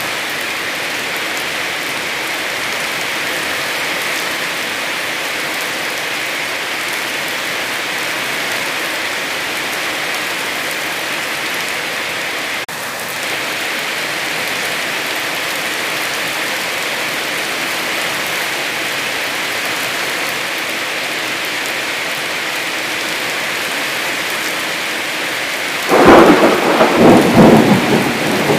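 Heavy rain falling steadily, an even hiss. About two and a half seconds before the end a loud, uneven rumbling burst breaks in over the rain.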